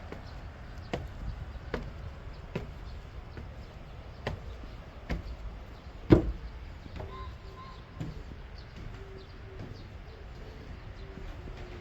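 Footsteps walking at a steady pace, a little under a second apart, with one heavier step about six seconds in. A faint broken tone comes in over the second half.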